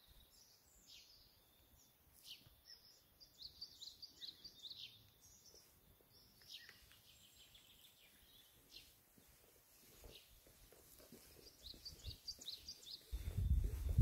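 Small songbirds chirping and twittering in short high calls, coming in several scattered bursts. Near the end a loud low rumble rises over them.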